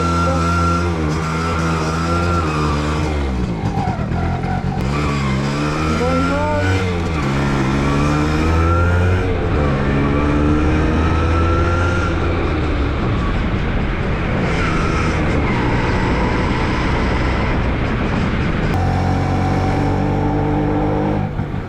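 Motorcycle engine running under load, its pitch climbing and then dropping several times as it revs up and shifts gears.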